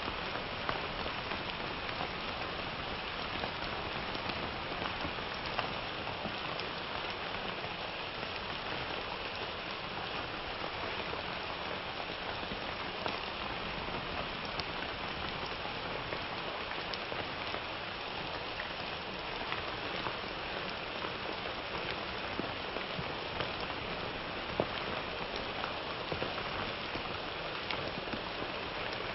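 Steady summer rain falling on a surface, a dense even hiss with many individual drops ticking through it.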